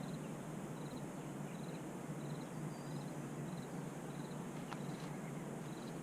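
A cricket chirping, short pulsed chirps repeating regularly, about one every two-thirds of a second, over a steady outdoor hiss. A single faint click sounds near the end.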